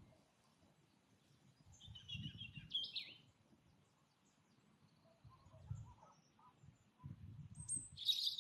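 Birds chirping in short calls, one ending in a falling note about three seconds in and a louder one near the end, with fainter calls farther off. Low rumbling noise comes and goes under the calls.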